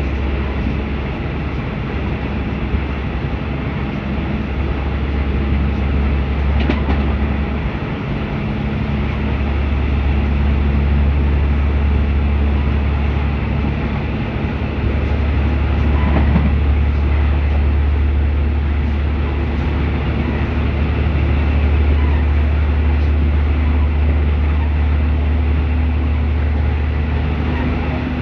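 Passenger train running along the track, heard from inside the carriage at a window: a steady, loud low rumble of wheels and running gear, with a couple of brief knocks.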